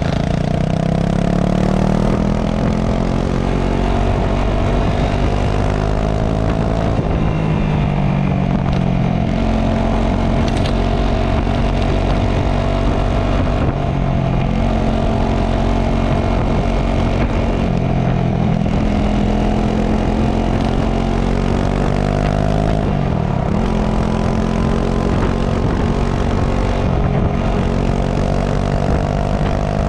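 Honda CRF250 Rally's single-cylinder engine running through its stock exhaust while riding, the engine note rising and falling repeatedly with throttle changes.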